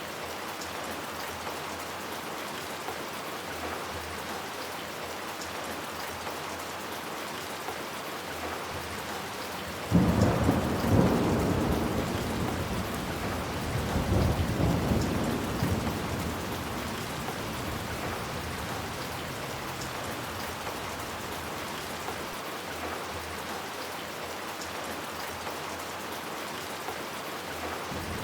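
Steady rain falling, with a clap of thunder breaking in suddenly about a third of the way through, rumbling and rolling away over several seconds.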